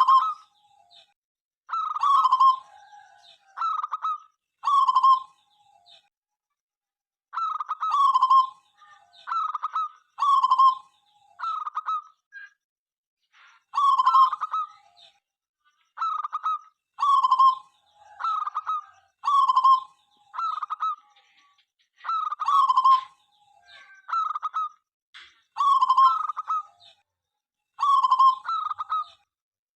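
Zebra dove (perkutut) cooing: a steady run of short, rolling coo notes, about one a second, with a short break about six seconds in.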